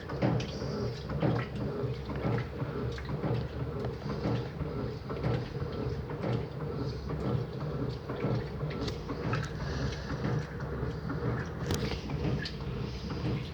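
Electrolux Turbo LT09B 8 kg washing machine running mid-cycle: a steady motor hum with frequent irregular knocks and clicks from the drum and load.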